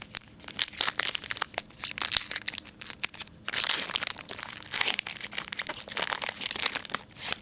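Crinkling and crackling of a trading-card pack's plastic wrapper being handled, a run of quick crackles with two longer, louder stretches in the middle.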